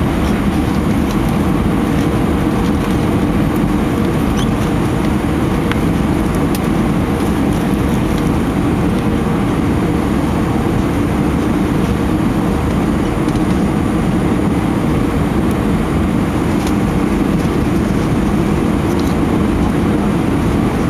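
Steady, loud cabin noise inside an Airbus A319 from a window seat: the engines and rushing air make a low, even rumble with a faint steady hum, and it holds level throughout.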